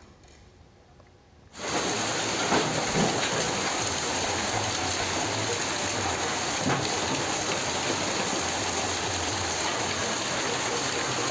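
Hailstorm: dense, steady noise of heavy rain and hail pelting down, with a few sharper knocks. It starts suddenly about a second and a half in, after a quiet moment.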